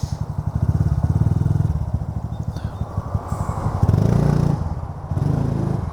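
Honda Super Cub C125's single-cylinder four-stroke engine running on the road under acceleration, pulling with a 37-tooth rear sprocket fitted one tooth up from standard. Its note swells about a second in and again near four seconds, with a brief dip a little after five seconds.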